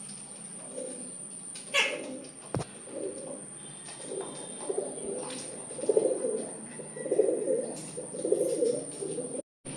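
Domestic pigeons cooing, a series of low, rolling coos that grow louder and more frequent in the second half. A couple of sharp clicks come about two seconds in.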